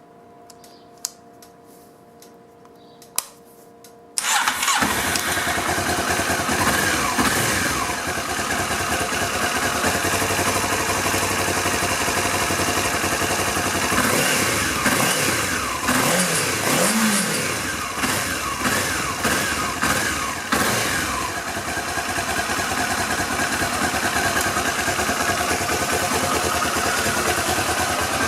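Honda CBF500 motorcycle's parallel-twin engine: two sharp clicks, then it fires about four seconds in and settles into a steady run. Around the middle it is blipped a few times, its pitch rising and falling, before running steadily again.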